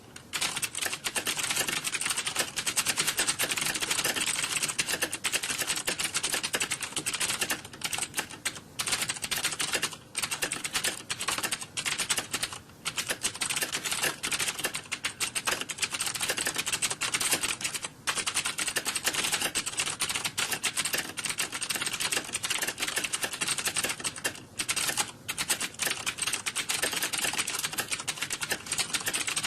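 Computer keyboard typing, rapid and continuous keystrokes clattering with a few brief pauses.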